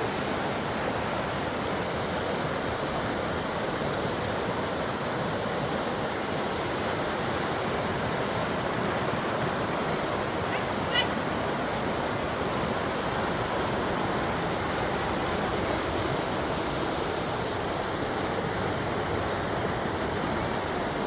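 Running water in a forest, a steady rushing flow of a stream or cascade. A brief high chirp sounds once about halfway through.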